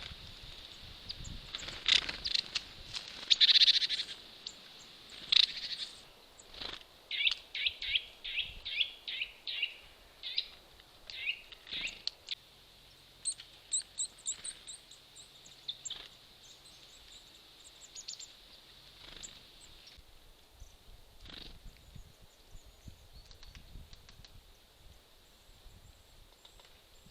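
Small woodland birds calling at a seed feeder: short chirps, then a quick run of about ten repeated notes, then thinner high notes that grow sparser toward the end. A few sharp knocks are mixed in.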